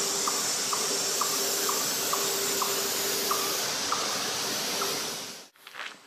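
A bird repeating a short, high call about twice a second over a steady hiss. The calls stop about four and a half seconds in, and the hiss cuts off abruptly a second later.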